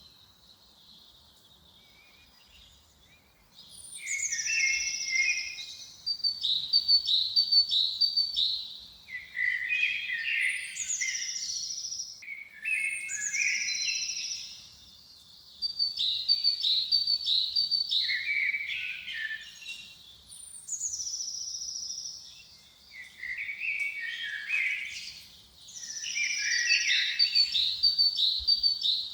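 A songbird singing in the forest, repeating a song phrase every few seconds. Each phrase opens with a high falling whistle followed by a run of quick chirping notes.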